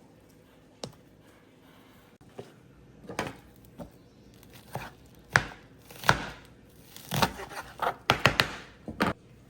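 A series of irregular sharp knocks and clatters, sparse at first and coming thick and fast over the second half.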